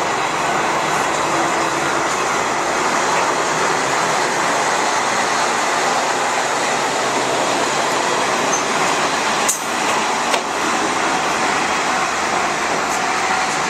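Kanto Railway KiHa 532 diesel railcar running steadily while shunting into the depot, with two sharp clicks close together partway through.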